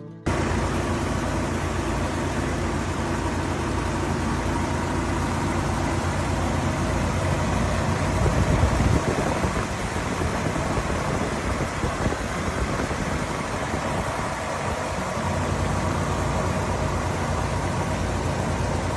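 1960 Lincoln Premier's 430 cubic-inch V8 idling, with a brief rise in revs about eight seconds in.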